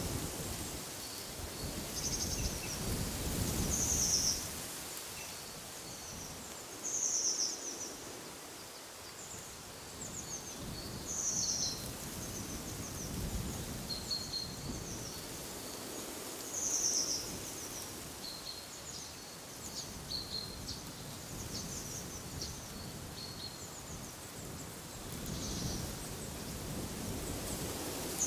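Small birds calling over and over in short, high-pitched chirps a second or two apart, over gusts of wind that rumble on the microphone and swell and fade.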